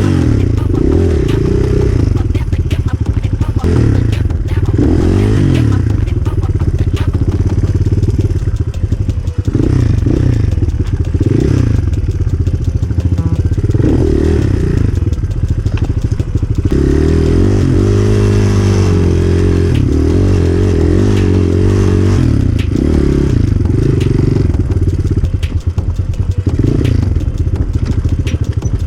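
Enduro motorcycle engine running hard, its revs rising and falling constantly as the bike is ridden off-road, with scattered knocks and rattles from the bike over rough ground.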